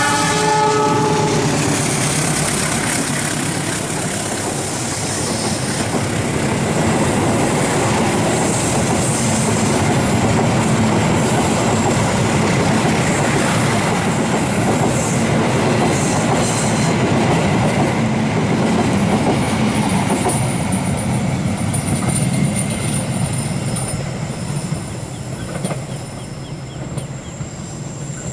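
Indonesian passenger train's horn sounding and cutting off about a second in, then the train passing close at speed, wheels clacking rapidly over the rail joints; the noise eases near the end.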